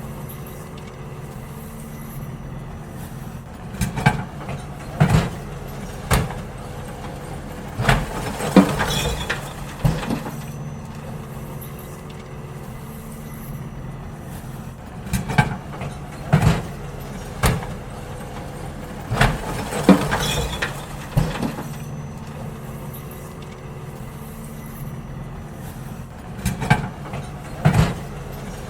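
Garbage truck engine running steadily while bins are emptied, with clusters of loud knocks and clatter every few seconds.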